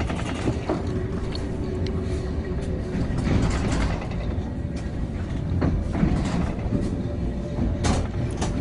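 Passenger train running, heard from inside the carriage: a steady low rumble with a few sharp knocks and rattles in the second half.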